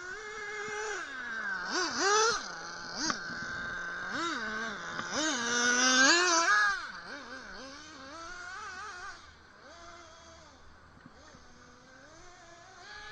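Brushless electric motor of a 1/8-scale RC buggy whining, its pitch rising and falling with throttle bursts. It is loudest around two seconds in and again around six seconds in, then settles lower and quieter.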